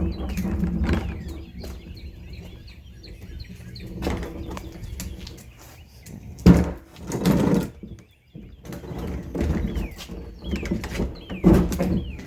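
Birds chirping in short falling whistled notes that repeat through the clip, over low rumbling and several loud thumps, the loudest about six and a half seconds in and again near the end.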